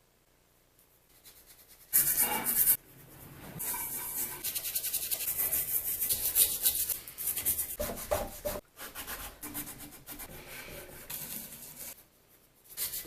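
Scrubbing a vise by hand to lift paint stripper and old paint, a rough rubbing in quick uneven strokes that starts about two seconds in and eases off for the last few seconds.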